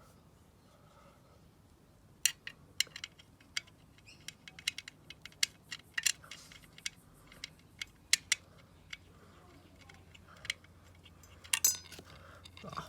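Irregular light metallic clicks and taps of small metal parts and tools being handled on a Mamod toy steam traction engine, with a brief burst of several clicks near the end.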